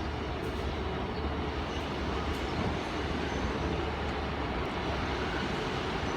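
Class 150 Sprinter diesel multiple unit standing at the platform with its underfloor diesel engines idling: a steady low hum.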